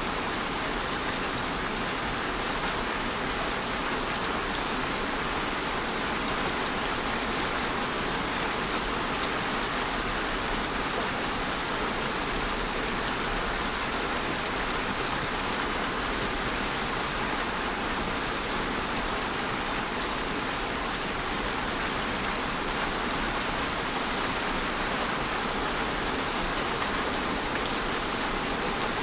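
Steady rain falling, an even hiss of rainfall with scattered drops ticking on surfaces.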